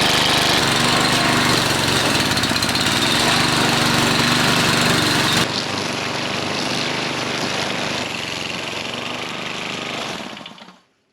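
Gas string trimmer (weed whacker) engine running, its pitch rising and falling with the throttle. The level drops suddenly about halfway through, and the sound fades out near the end.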